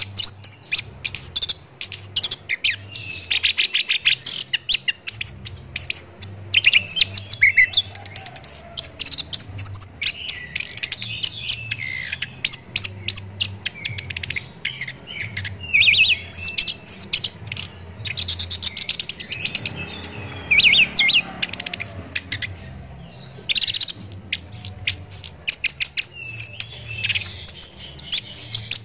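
Chestnut-capped thrush (anis kembang) singing a long run of rapid, varied chirps, whistles and trills, with a short pause about three quarters of the way through.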